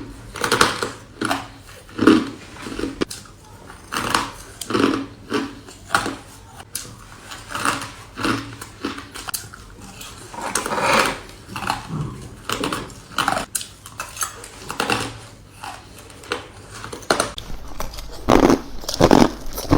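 Ice being bitten and crunched between teeth close to the microphone, bite after bite at an uneven pace of about one or two crunches a second.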